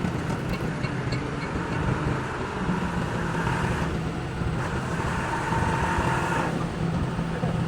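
An engine running steadily with a low, even hum, over a background of traffic-like noise.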